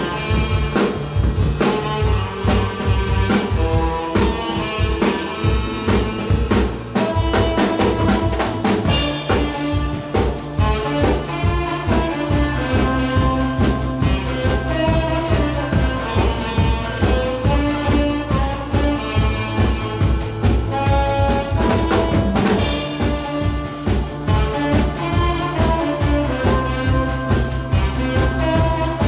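Saxophone and drum kit playing a trot song together, with a steady beat and cymbal crashes about 9 and 22 seconds in.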